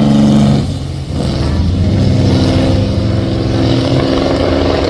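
Car engine accelerating hard at high revs, with a quick upshift about a second in, then pulling steadily up through the revs again.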